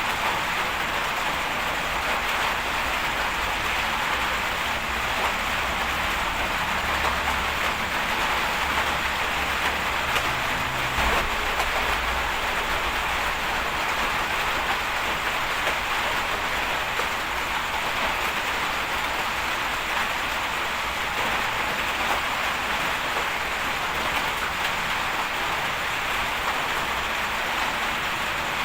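Steady rain hiss with a low rumble underneath that swells for a few seconds near the middle. A single knock comes about eleven seconds in.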